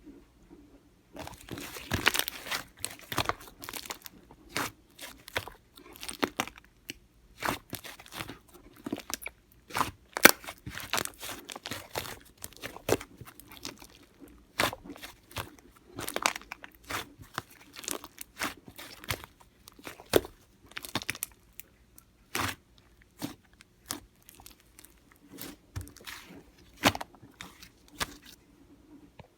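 Slime being squeezed and pressed by hand, giving irregular sharp pops and crackly clicks of trapped air bubbles: the 'kkwari' popping sound slime players aim for.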